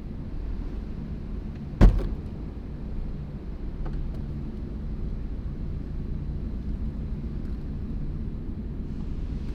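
A car door slams once, loudly, about two seconds in, over a steady low rumble.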